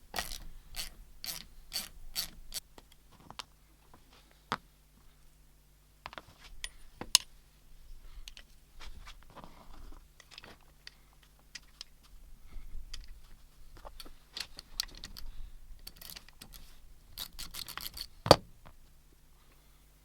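Metal hand tools and parts of an old cast-metal bench shear being handled and worked: a quick run of even clicks at the start, then irregular clicks and clanks, with a sharp metal knock about seven seconds in and the loudest near the end.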